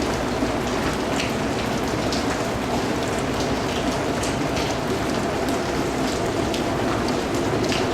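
Steady rain falling, an even hiss with the sharp ticks of individual drops scattered through it.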